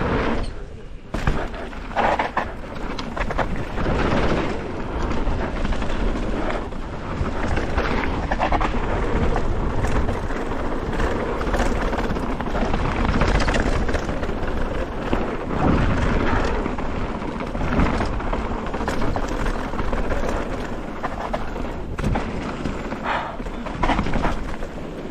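Mountain bike ridden fast down a rough downhill trail: steady wind rumble on the microphone with tyres on dirt and frequent knocks and rattles from the bike over bumps.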